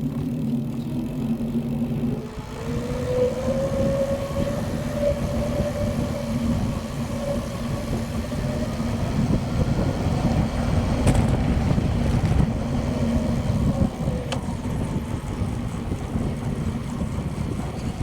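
Riding noise of a moving bicycle: tyres rolling on pavement with wind rumbling on the microphone. A steady hum rises in pitch about two seconds in as the bike picks up speed, holds, and fades away near the end.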